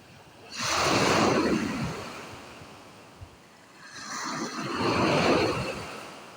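Sea of Azov waves breaking on the shore: two waves, each rising to a rushing wash and fading away, the first about a second in and the second a few seconds later.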